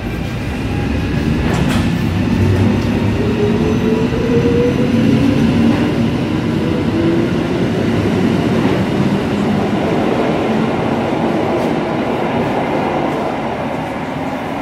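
Suburban electric train pulling out of an underground station platform and accelerating. Its motors whine upward in pitch over a steady rumble that grows louder and then eases off toward the end as the last car goes by.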